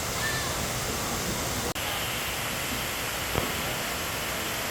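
Waterfall rushing in a steady, even wash of water noise. It cuts out for an instant a little under two seconds in, and there is a single short tap about a second and a half later.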